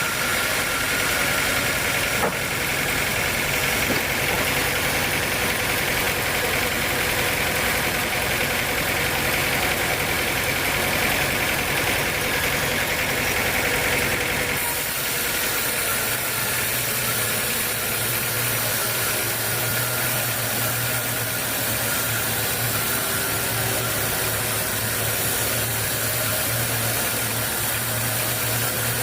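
Sawmill machinery running steadily, with an abrupt change in its sound about halfway through.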